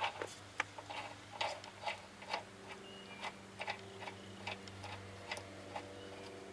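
Irregular light clicks and knocks as skid-steer clutch-drive parts are handled and set in place, over a steady low hum.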